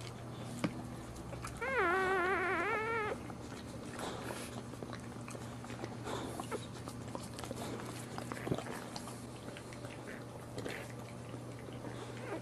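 A pet animal's wavering call, about a second and a half long, starting a little under two seconds in. Faint small clicks and a low steady hum lie under it.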